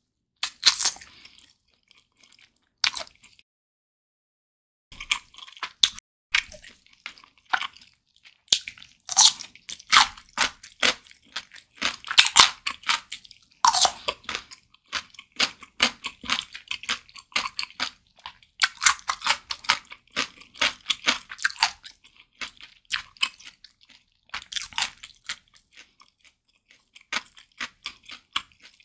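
Close-miked chewing of a grilled Jamaica-style chicken drumstick dressed in a creamy white sauce: wet, sticky mouth sounds and sharp small clicks in bursts, with two short pauses in the first few seconds.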